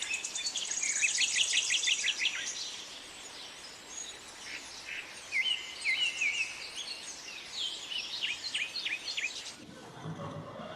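Songbirds singing: rapid high chirps and trills in repeated phrases. The birdsong cuts off abruptly near the end, and a lower sound takes over.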